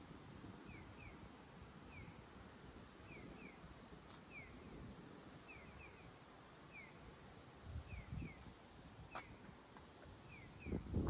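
A small animal chirping repeatedly, short falling chirps often in pairs about once a second, over a low rumble of wind on the microphone. A louder low thump comes near the end.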